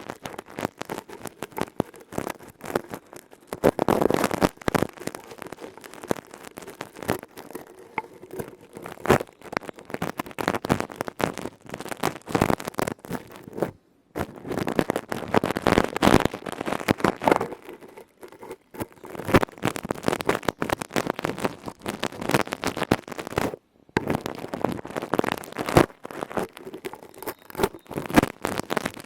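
ASMR tapping and scratching on objects: dense, irregular crackling clicks and scrapes, breaking off briefly a few times.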